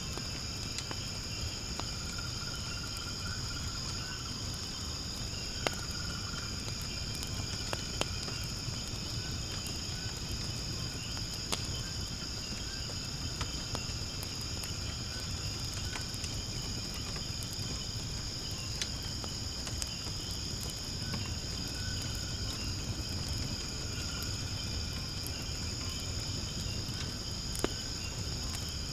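Firewood burning in a fire pit: a low, steady rumble of flame with a few sharp crackling pops several seconds apart. Behind it, a steady high-pitched chirring of insects.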